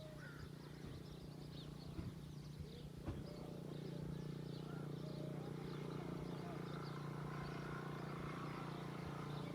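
Many small birds chirping over a steady low hum that grows a little louder about four seconds in, with a couple of sharp clicks.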